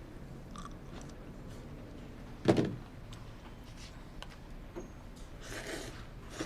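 A single sharp thump about two and a half seconds in, over faint room noise, with a few small knocks and a brief rustle near the end.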